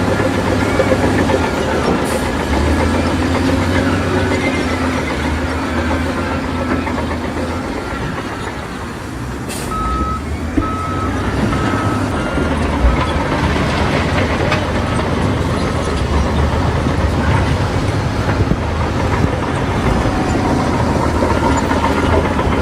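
Diesel engines of heavy earthmoving machinery, a bulldozer and dump trucks, running steadily. A vehicle's reversing alarm beeps: faintly at the start, then about four clear beeps around halfway through.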